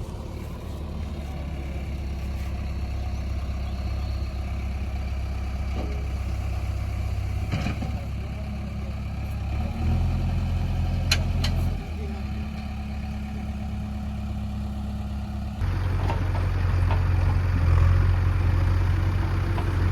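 Heavy diesel engine running steadily at low revs, with sudden shifts in pitch and loudness about ten, twelve and sixteen seconds in.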